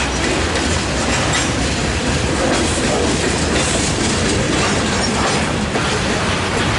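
Freight train cars rolling past close by: a steady rumble of steel wheels on rail, with repeated clicks as the wheels cross rail joints.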